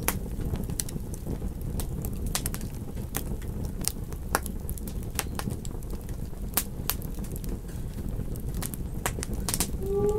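Campfire crackling: irregular sharp pops and snaps of burning wood over a steady low rush of the flames.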